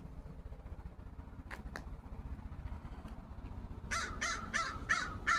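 A bird giving a quick run of five short, harsh calls, about three a second, starting near the end, over a steady low rumble.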